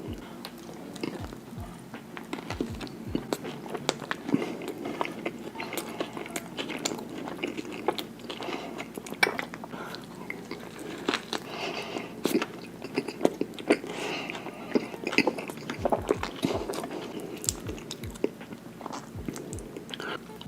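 Close-miked mukbang eating: wet, squishy biting and chewing of sauce-dipped Big Mac burgers, with many quick mouth clicks and smacks.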